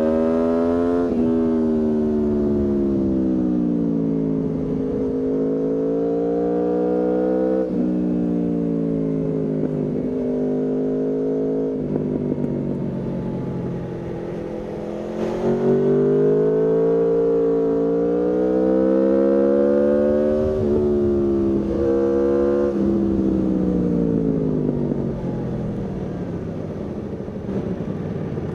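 Aprilia Tuono V4's V4 engine under way, revving up and dropping sharply in pitch at several quick upshifts, with stretches of falling revs as it eases off. About halfway through it pulls harder and louder through more upshifts, then the revs fall away near the end.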